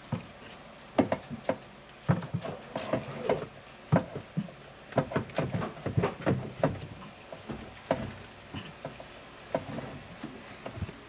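Irregular knocks, clicks and clatter of hands and objects handled against wooden boards inside a cupboard.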